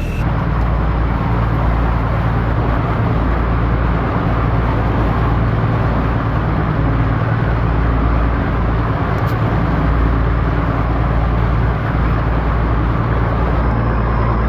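Boat engine running steadily under way: a low, even drone with a steady rushing noise over it.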